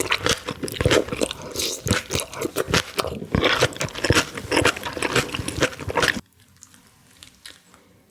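Close-miked mukbang eating sounds: wet chewing, biting and mouth smacks, dense and loud. About six seconds in they cut off abruptly, leaving only a few faint clicks.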